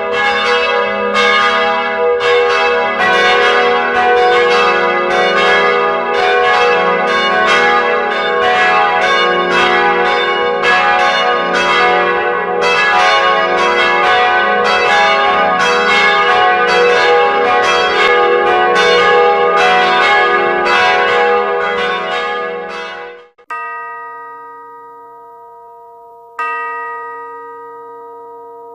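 Church bells pealing in quick succession, about two strikes a second with the rings overlapping, cutting off suddenly about 23 seconds in. Then a single clear-toned bell is struck twice, about three seconds apart, each strike ringing out slowly.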